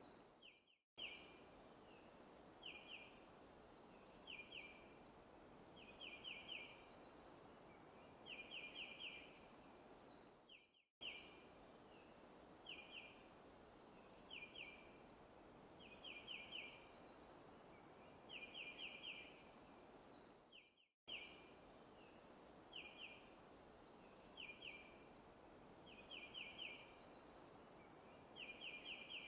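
Faint forest ambience: a bird repeating short runs of two to four quick chirps every second or two over a steady background hiss. The ambience is a loop of about ten seconds that cuts out to silence for a moment each time it restarts.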